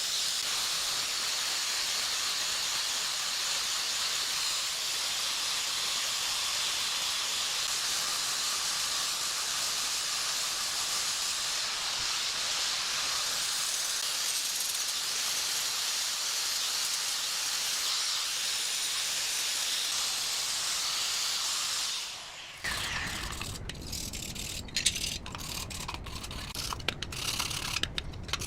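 Steady hiss of compressed air escaping, which cuts off suddenly after about twenty seconds. It gives way to a lower rumbling noise with scattered clicks and knocks.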